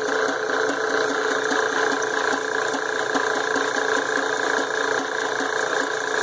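Small benchtop drill press running steadily while it drills into a Damascus steel billet, with an even hum and a light, regular ticking.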